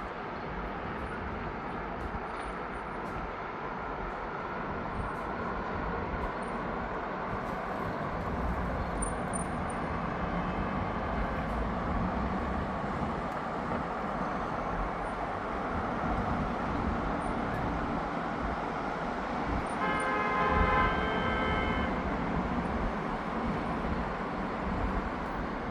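Steady city street traffic noise. A vehicle horn sounds for about two seconds near the end, with a fainter horn-like tone about halfway through.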